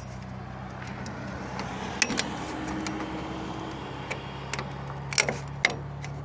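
A few sharp clicks and snaps of car body trim being pried off its rusted metal clips, about two seconds in and again around five seconds in, over a steady low hum.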